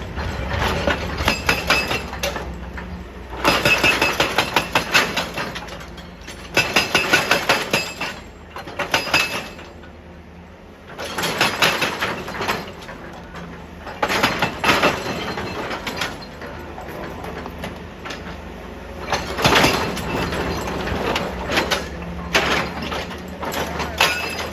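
Excavator's diesel engine running steadily, broken by about six bursts of rapid impacts and clatter on rock, each lasting a second or so.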